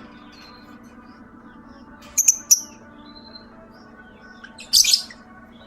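Young lovebirds in breeding condition giving short, shrill chirps in three bursts: two close together about two seconds in and a longer one near the end.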